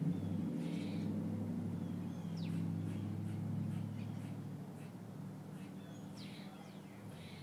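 Birds chirping now and then over the low hum of an engine, which fades away.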